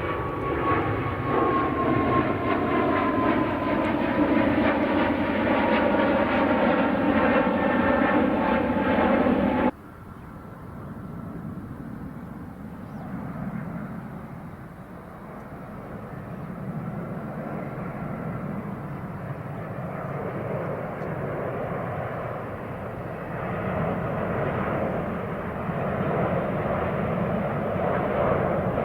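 Jet airliner engines passing close, with a whine that falls steadily in pitch. About a third of the way in the sound cuts off suddenly, and quieter engine noise from another jet follows, slowly growing louder.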